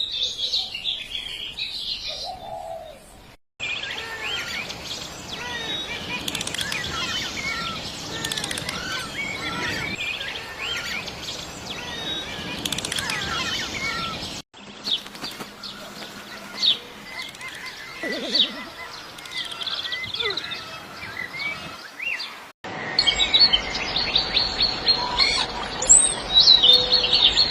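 Many birds chirping and calling, with short whistled notes that rise and fall. The sound is cut abruptly to a different recording three times.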